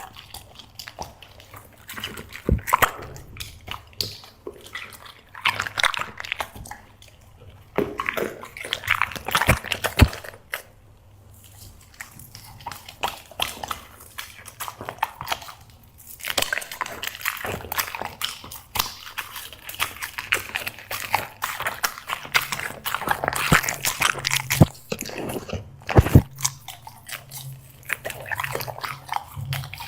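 A black Labrador chewing and crunching seafood snacks: irregular bursts of crunching and clicking bites, with a brief lull partway through.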